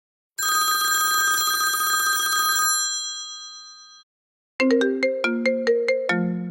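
Two phone ringtones one after the other: first a steady ringing chime held for about two seconds and then fading away, then, after a short gap, a melodic ringtone of quick plucked notes stepping up and down.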